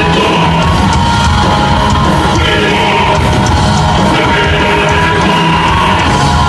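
A heavy metal band playing loud, with shouted vocals over a steady drum beat.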